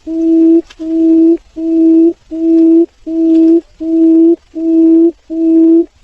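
Barred buttonquail booming call: a low hoot repeated steadily, about three notes every two seconds, each note held at one pitch.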